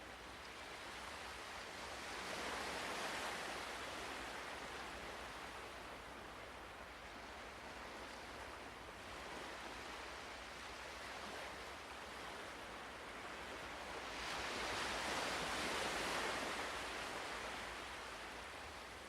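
Ocean waves washing ashore in slow swells, two larger waves building and fading about two seconds in and again near the end.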